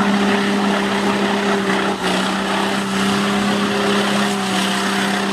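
An off-road 4x4's engine held at steady high revs under load, with a brief dip about two seconds in, over a hiss of noise.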